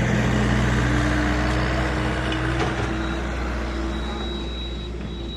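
A heavy engine runs with a steady low hum, its pitch edging up slightly, and grows slowly quieter.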